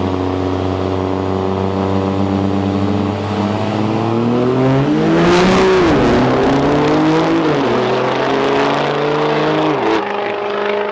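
Turbo-diesel drag trucks holding steady revs at the starting line, then launching about five seconds in. The engine pitch climbs and drops back at each gear shift, then falls off near the end.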